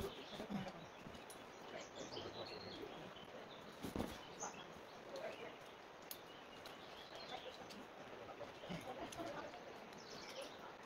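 Outdoor ambience of birds chirping now and then over a steady hiss, with a sharp knock about four seconds in.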